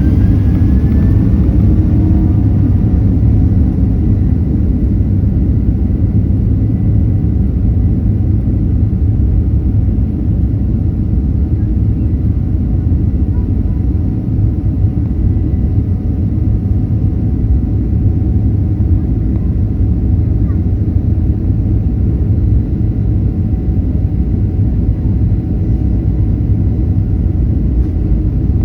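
Cabin sound of a Boeing 737-800's CFM56-7B turbofans at takeoff power: a steady heavy rumble. A faint engine whine rises in the first couple of seconds, then holds at a steady pitch.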